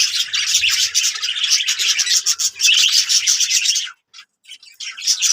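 Budgerigars chattering in a dense, continuous twitter of quick chirps. The chatter cuts off sharply about four seconds in and returns just before the end.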